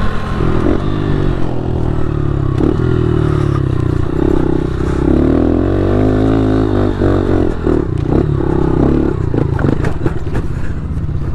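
Pit bike engine running under way, its revs rising and falling as the throttle is worked, with a longer climb and drop about halfway through. A few rattling clicks come near the end.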